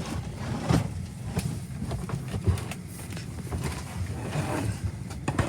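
Airliner cabin during boarding: a steady low hum, likely from the cabin air and ground power, with scattered knocks, bumps and clatter, probably from passengers moving and stowing bags.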